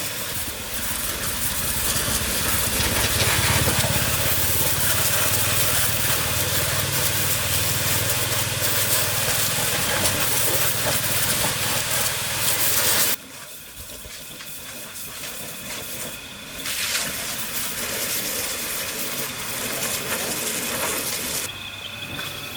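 Engine of an old farm vehicle running steadily with a broad hiss over it, cutting off abruptly about thirteen seconds in. A quieter hiss follows, with faint insect chirping near the end.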